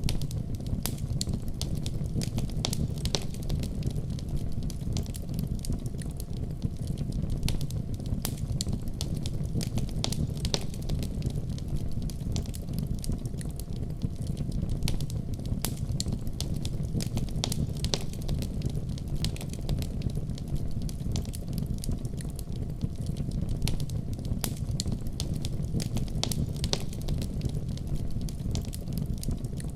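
Wood fire crackling in a fireplace, a steady stream of sharp snaps over a low, even rumble.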